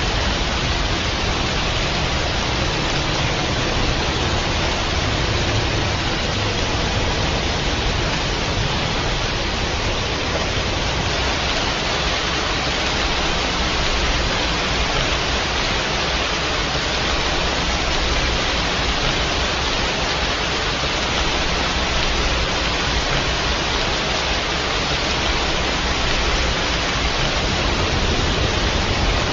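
Steady heavy rain, an even hiss with no separate drops or thunder standing out.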